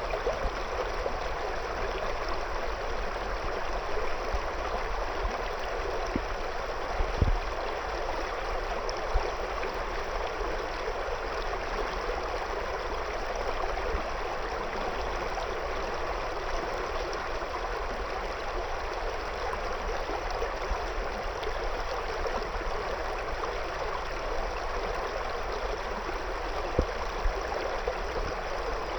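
River water flowing and gurgling around stones, a steady rushing sound, with a few faint low thumps at about a quarter of the way in and again near the end.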